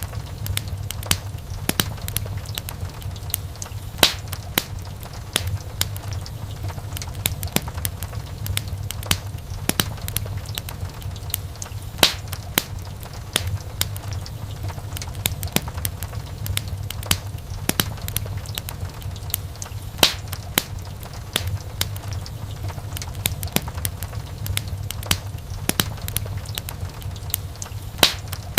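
Wood fire burning in a fireplace, crackling with many irregular sharp pops and snaps, a few much louder than the rest, over a steady low rumble.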